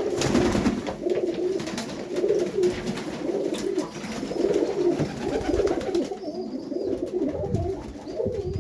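Domestic highflyer pigeons cooing, several birds overlapping in a continuous low, pulsing warble. Scattered small knocks and rustles come through over the first six seconds or so.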